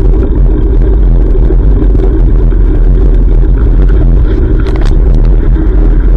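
Loud, steady low rumble of wind buffeting a GoPro microphone while cycling, mixed with road and traffic noise, with a few brief rattling clicks about four to five seconds in.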